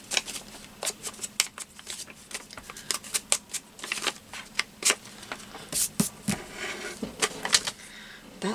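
Sheets of paper being handled and laid down on a table: irregular crisp rustles and light taps.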